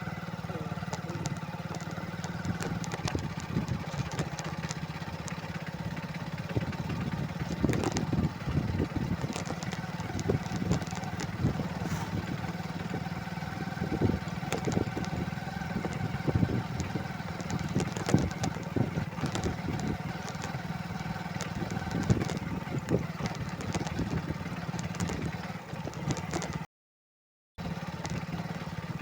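Motorcycle engine running steadily, with frequent sharp knocks and rattles over it. The sound cuts out completely for about a second near the end.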